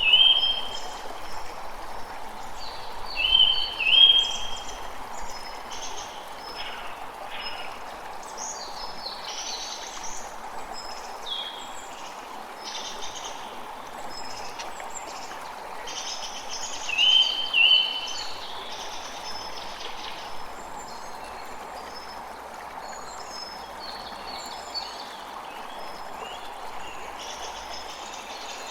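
A creek running steadily, with many small birds calling and chirping over it. The loudest calls are short paired notes, heard near the start, about three to four seconds in, and again about seventeen seconds in.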